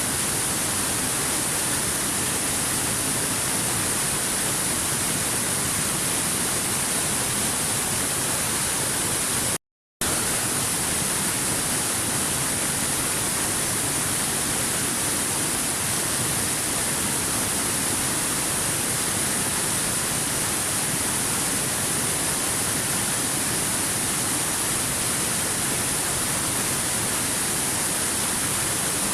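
Waterfall: a steady, even rush of falling water. It cuts out completely for about half a second roughly ten seconds in, then resumes unchanged.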